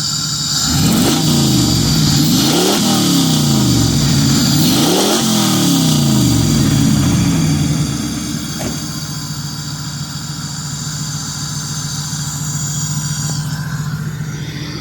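Pontiac Trans Am's LT1 V8 revved up and down a few times, then settling back to a steady idle. It is running again with its faulty MSD ignition box bypassed.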